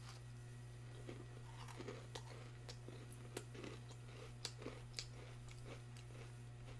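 Faint biting and chewing of a large sugar cookie, heard as small scattered mouth clicks over a steady low hum.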